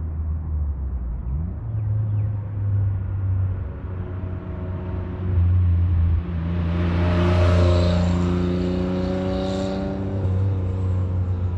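Autozam AZ-1 with a straight, catalyst-free downpipe on its turbocharged 657 cc three-cylinder engine, accelerating and driving past. The exhaust note rises in pitch early on, is loudest a little past the middle with a rush of noise as the car goes by, then eases.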